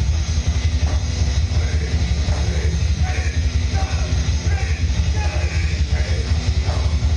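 Live heavy rock band playing: distorted electric guitars over a bass-heavy, fast steady drum beat, with some shouted vocals.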